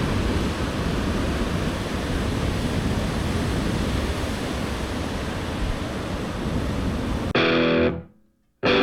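Steady noise of heavy typhoon-swell surf and wind on the microphone. Near the end it cuts off abruptly to distorted electric guitar chords, struck, let ring and struck again.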